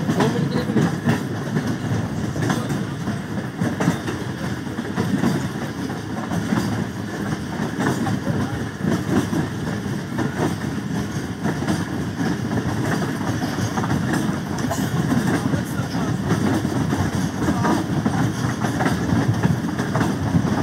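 Passenger train noise: a steady low rumble with rattling.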